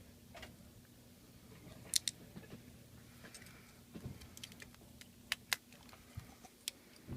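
Sharp little clicks and taps of small hand tools and phone parts being handled while an HTC One M7 is taken apart, scattered and irregular, over a faint steady low hum.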